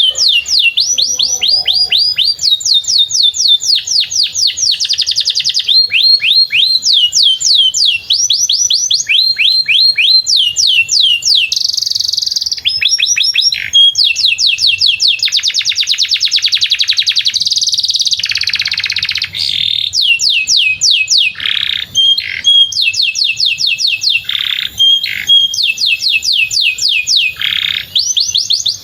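Canary singing a long, unbroken song: runs of fast repeated falling notes, about four to five a second, switching every second or two to new phrases, with some dense rolling trills and a few held notes.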